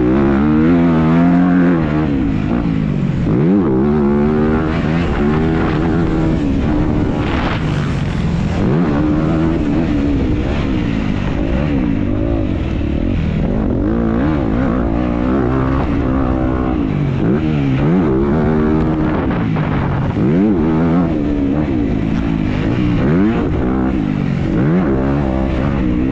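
Motocross dirt bike engine heard from the rider's own onboard camera, its revs rising and falling over and over through throttle and gear changes.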